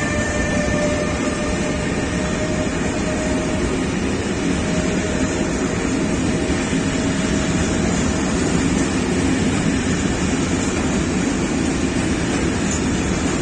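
Freight train of tank wagons hauled by an ÖBB Siemens Vectron electric locomotive passing close by, with a steady rumble and rolling of wheels on rail. A whine from the locomotive fades away over the first several seconds as it moves off.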